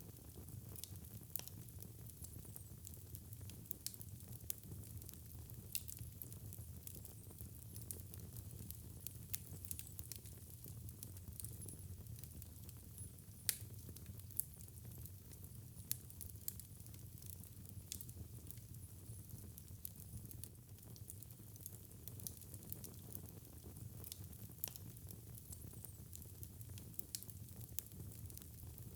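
Fire in a fireplace crackling: scattered sharp pops and snaps over a steady low rumble of burning, with one louder pop about halfway through.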